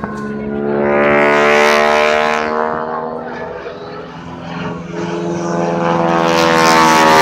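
Propeller airplane engine droning, its even note growing loud about a second in, easing off around four seconds, then swelling again near the end.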